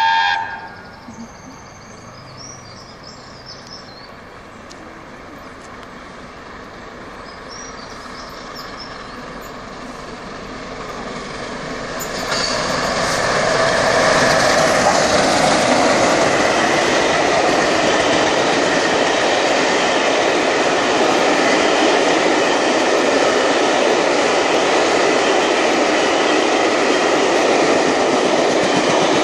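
Peppercorn A1 Pacific steam locomotive Tornado approaching at speed, the end of a whistle blast just at the start, growing louder until it passes close by about twelve seconds in, then its train of coaches running past with steady wheel noise and clickety-clack.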